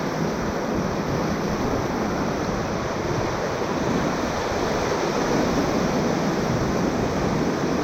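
Whitewater of a river at high water rushing steadily around a raft, an even roar with no distinct splashes or knocks.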